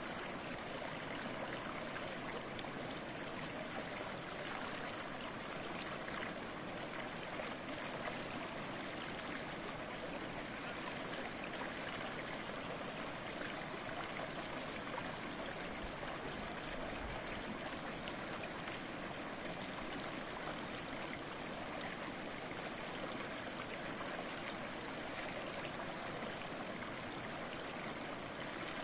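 Flowing stream babbling steadily, an even rush of water.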